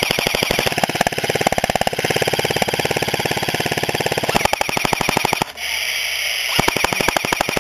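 Airsoft electric gun firing full-auto close to the microphone, a rapid even rattle of shots. There is one long burst, a pause of about a second near the end, then a second burst.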